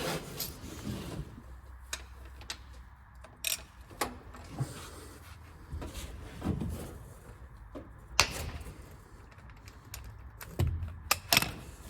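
Scattered sharp metallic clicks and knocks of hand tools working at a car's automatic transmission drain plug, the loudest about eight seconds in and two close together near the end, over a low steady hum.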